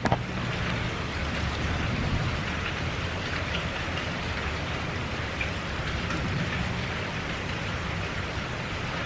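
Steady rain falling, an even hiss with no let-up. A single short click comes right at the start.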